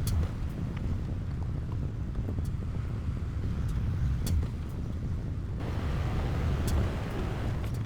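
Diesel engine of heavy earthmoving machinery running with a steady low rumble, with scattered light clicks over it.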